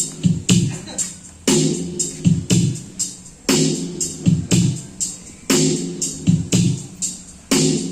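Electronic dance music with a heavy drum-machine kick played loud through a newly built sound-system speaker box on demo test. A loud bright hit returns about every two seconds over the thumping low beat.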